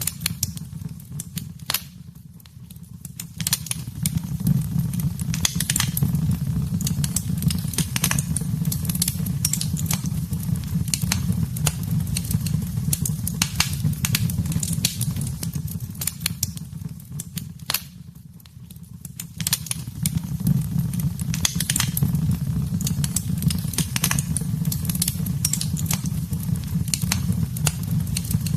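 Wood fire crackling in a fireplace: many sharp pops and snaps over a steady low rumble of the flames. The whole sound dips briefly twice, about two seconds in and again past the middle.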